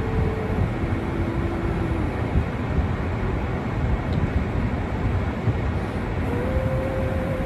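Steady vehicle running noise, a low rumble with a faint hum that drops in pitch near the start and comes back higher near the end.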